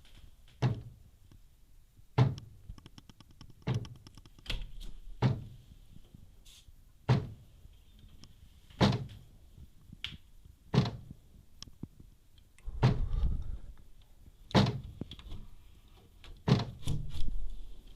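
Repeated sharp knocks at a window, one about every one and a half to two seconds, with a longer rumbling one about two thirds of the way through and two close together near the end. Their cause is unexplained.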